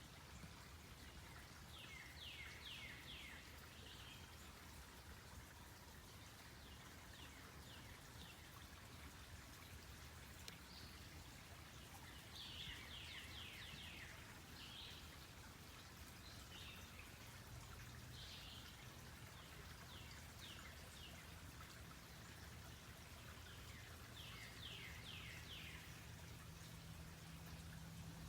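Faint forest birdsong: one bird repeats a phrase of quick falling notes three times, about ten seconds apart, among fainter scattered calls.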